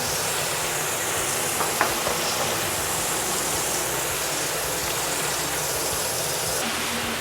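A steady, even hiss that starts abruptly, with a couple of faint small clicks about two seconds in.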